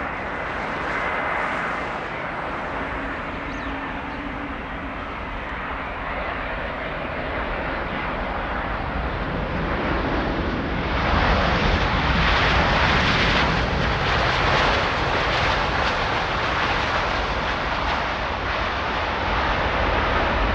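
Airliner engines running as a continuous loud rush, growing louder about halfway through and then holding steady.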